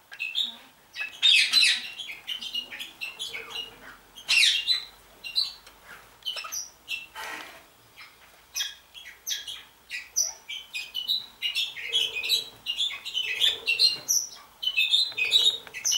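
Budgerigars chattering and squawking: many short, quick chirps overlapping, busiest in the second half.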